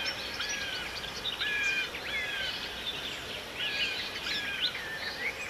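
Birds chirping and singing: a busy run of short whistled notes and quick chirps over a light, steady outdoor hiss.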